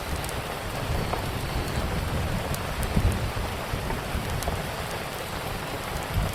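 Steady rain falling, with a low rumble that swells about three seconds in, and scattered small pops of a crackling wood fire.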